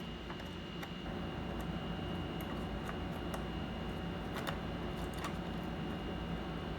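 Light, irregular clicks and ticks of small tools and parts being handled during computer repair work, over a steady low hum.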